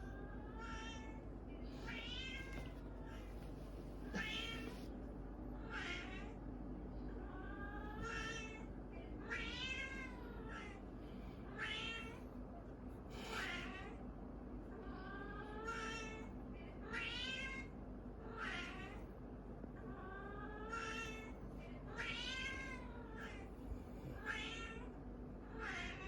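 Orange cat meowing over and over in drawn-out yowls, each call rising and then falling in pitch, about one every one to two seconds.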